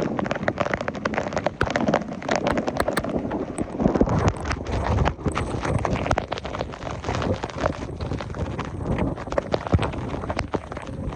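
Heavy rain falling, with a dense, irregular run of sharp taps from drops striking close to the microphone.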